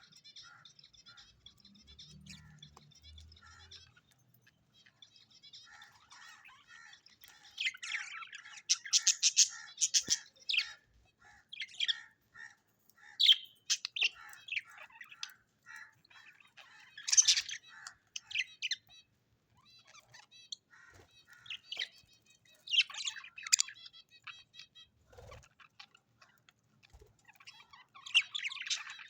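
Birds chirping and calling: soft twittering at first, then loud clusters of sharp chirps that come and go.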